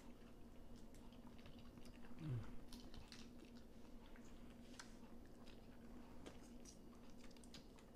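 Faint chewing and scattered small clicks of a person eating steamed blue crab and shrimp, with a brief low 'mm'-like voice sound about two seconds in.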